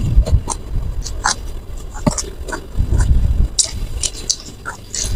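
Wet chewing and lip-smacking from a mouthful of rice and shrimp eaten by hand, with many scattered short clicks and dull low thumps.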